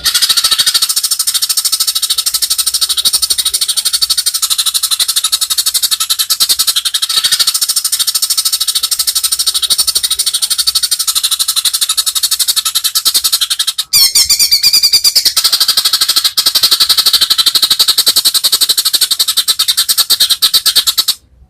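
White-rumped shama (murai batu) singing a long, fast, high-pitched rattling trill, the rapid 'trotol' delivery. It breaks off briefly about two-thirds of the way through, resumes, and stops just before the end.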